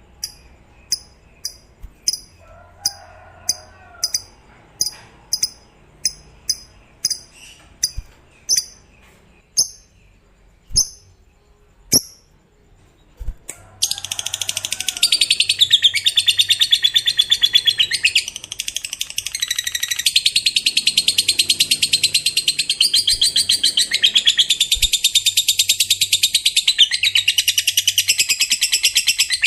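Lovebird giving single sharp chirps at an even pace that slows. About halfway through it breaks into a long, very rapid high chattering trill, the 'ngekek panjang' (long ngekek) of a fighter lovebird, which runs on with only a brief dip.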